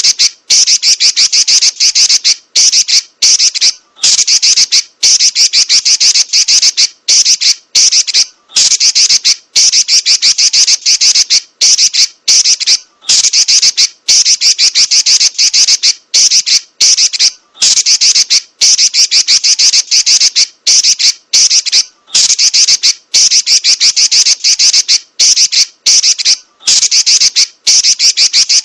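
Female Pekin robin (red-billed leiothrix) chattering in fast, high-pitched rolls, each run lasting a second or two and broken by brief pauses.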